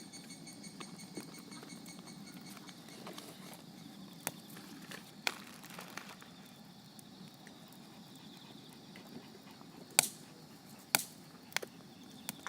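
Wood campfire burning: a low steady rush with sharp crackles and pops from the burning wood, the loudest about ten and eleven seconds in.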